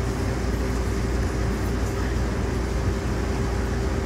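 Electric rail car running on the line, heard from inside: a steady rumble of wheels on track with a constant hum over it.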